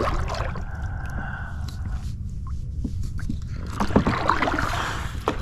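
Kayak paddling: the paddle splashing through the water, with a few knocks, mostly in the last second or two, over a steady low rumble.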